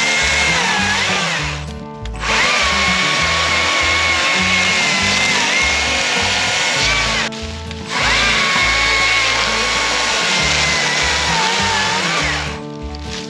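A small electric motor running in three long stretches, its whine dropping in pitch each time just before it stops, over background music with a steady bass beat.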